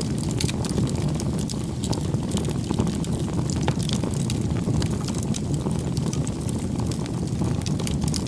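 Wood fire crackling: a steady low rumble with frequent small, irregular pops and snaps.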